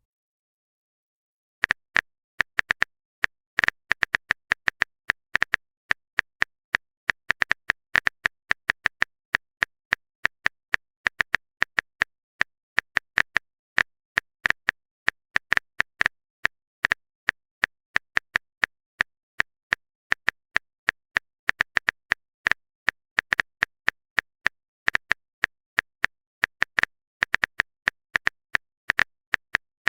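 Typing sound effect: a quick, uneven run of short keystroke clicks, starting about two seconds in and going on without a break.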